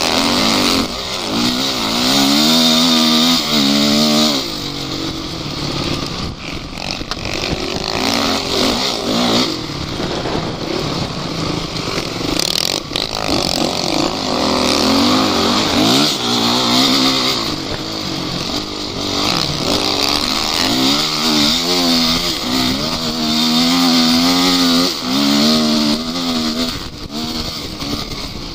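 Off-road vehicle engine revving hard and easing off again and again as it works over rough ground, its pitch rising and falling. The hardest revving comes about two seconds in, around the middle, and again in the last third.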